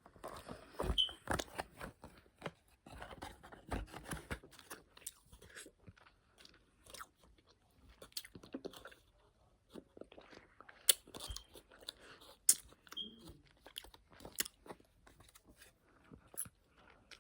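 A person chewing soft fruity gummy candy close to the microphone, with irregular wet mouth clicks and smacks; a few sharper clicks come about two-thirds of the way through.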